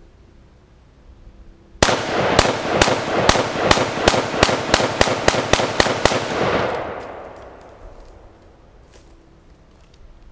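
An AK-47 rifle fired rapidly at an air compressor, about sixteen shots at three to four a second. A wash of echoing noise hangs between the shots and fades over about a second and a half after the last one.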